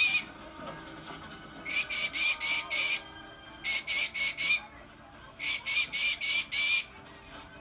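Green-cheeked conure giving harsh calls in runs of four or five, about three a second, with gaps of roughly a second between runs.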